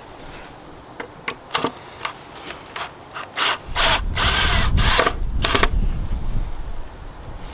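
A few sharp clicks and knocks, then a power drill running for about two seconds as it drives a screw into the fence wood.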